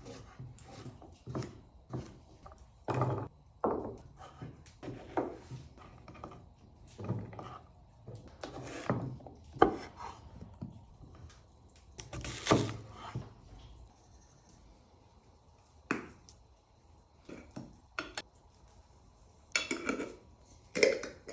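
Kitchen food preparation: irregular knocks and taps of a knife cutting on a wooden chopping board, with a few louder knocks.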